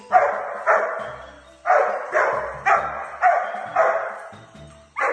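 A dog barking repeatedly, about eight sharp barks: two, a short pause, then a run of barks about half a second apart.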